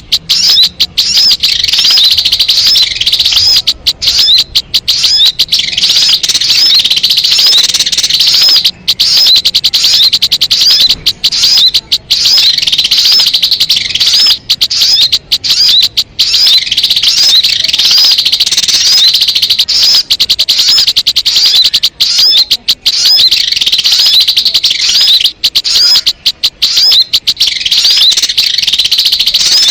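Loud, continuous high-pitched chirping of sogok ontong (spiderhunter) calls in rapid repetition, with only brief gaps: a lure recording meant to draw wild birds of the same kind.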